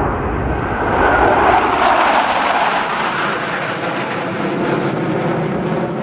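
Roar of Blue Angels F/A-18 Super Hornet jets flying past, loud, swelling to its peak a second or two in and then easing off a little.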